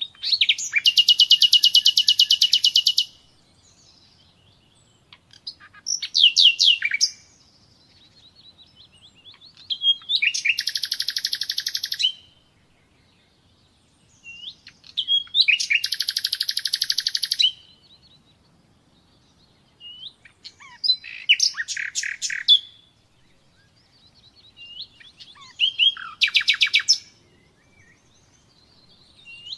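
Common nightingale singing: six phrases of fast repeated notes and rattling trills, some about three seconds long and others around a second, separated by pauses of a few seconds.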